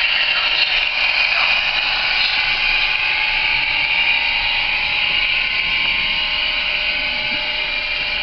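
Sound-fitted Bachmann Class 55 Deltic model locomotive playing its recorded Deltic diesel engine sound through the model's speaker, running steadily with a whining hum, easing slightly toward the end.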